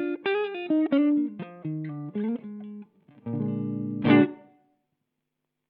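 Electric guitar played through a Rowin LEF-606 fuzz pedal: a quick run of single picked notes, then a sustained chord ended by a hard strummed hit, after which it stops short.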